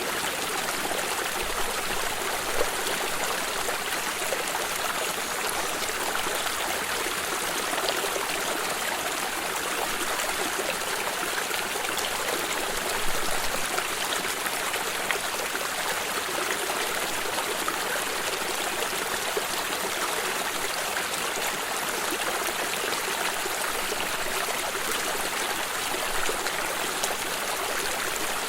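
Flowing stream: a steady rush of water over stones, with small splashes and trickles.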